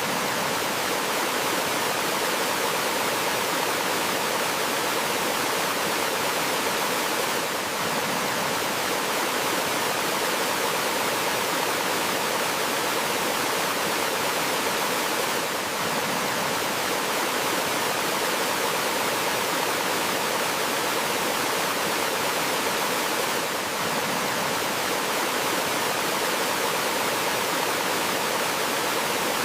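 Steady rush of water from a small forest waterfall and stream, an even, hiss-like flow with a faint dip in level about every eight seconds.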